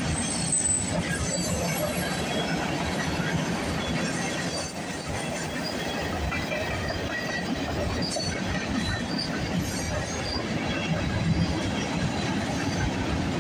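Freight train cars rolling past: covered hoppers, a tank car and gondolas. Their wheels rumble steadily on the rails, with brief faint high squeals now and then.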